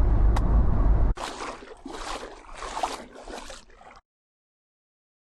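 Car interior road noise, a steady low rumble with a single click, which cuts off abruptly about a second in. Then come four quieter swelling surges of hissing noise, and the sound stops dead.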